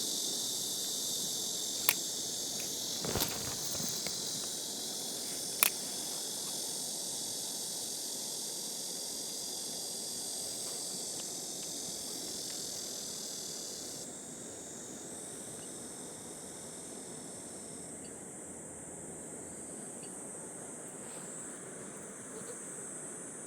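A summer evening chorus of insects, several layers of high steady trilling, over the low steady rush of stream water; one of the high layers stops a little past halfway. A few sharp clicks and a knock sound in the first six seconds.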